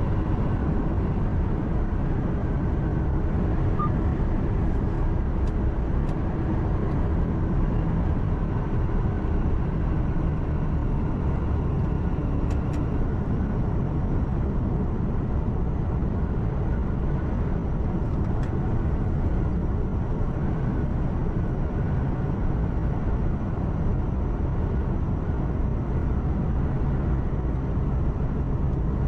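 Truck cab noise while driving: a steady diesel engine drone with road and tyre rumble, heard from inside the cabin. There are a few faint ticks along the way.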